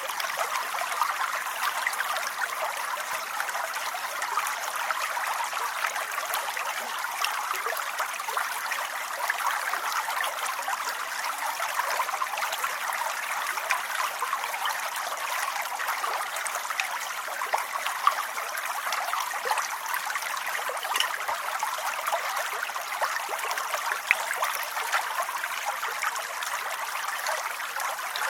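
Steady rain falling without a break, a dense hiss of countless small drop ticks, with little deep rumble.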